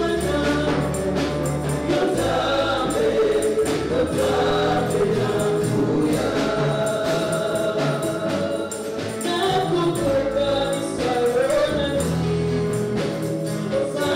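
Congregation choir singing a gospel praise song with band accompaniment: a steady bass line and tambourine-like percussion.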